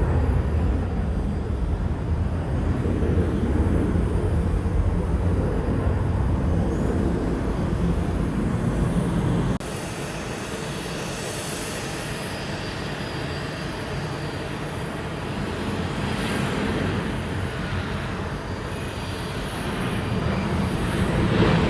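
Jet noise from Boeing 737-900 airliners' CFM56-7B turbofans: a heavy low rumble that cuts off abruptly about ten seconds in, then a quieter jet sound that builds toward the end as the next 737-900 approaches.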